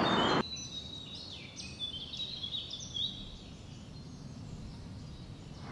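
Birds chirping and singing over a faint, steady outdoor background. A louder sound cuts off abruptly about half a second in.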